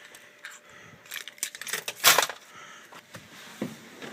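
Car keys jangling on their ring with a few clicks and knocks, as the ignition key is turned off and handled; the loudest jingle comes about two seconds in.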